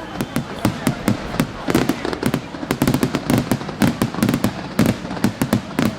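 Fireworks display: a rapid, irregular barrage of sharp bangs, several a second.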